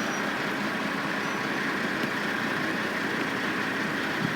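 Steady, unbroken engine and machinery noise from a construction site, like heavy vehicles idling, with no single event standing out.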